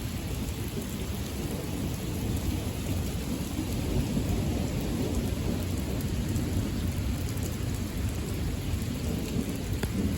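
Thunder rumbling low and continuously under steady heavy rain, the rumble swelling slightly a couple of seconds in.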